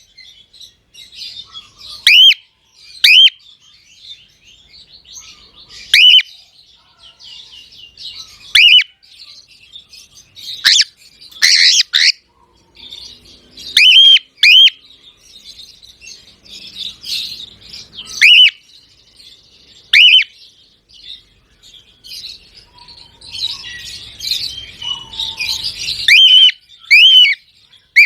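Pet cockatiels calling: loud, short whistled calls that rise then drop, repeated every second or few, with softer chattering warble in between.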